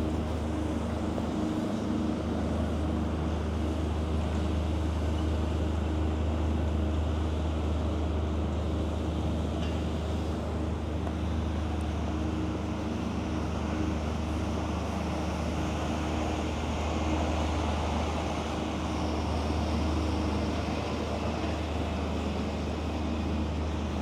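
Steady road traffic noise: a constant low rumble of passing vehicles with a wider hiss above it, and no single event standing out.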